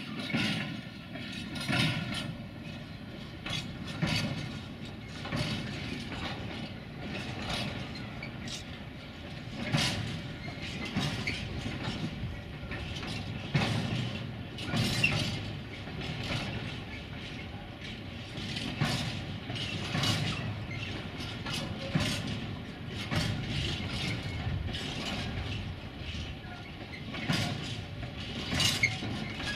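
A train rolling past, its wheels knocking irregularly over the rail joints every second or two over a steady rumble.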